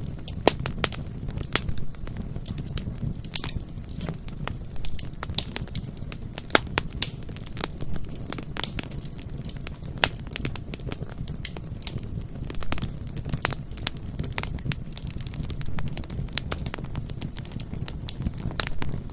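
Bonfire burning, with a steady low rumble of flames and frequent irregular sharp crackles and pops of burning wood.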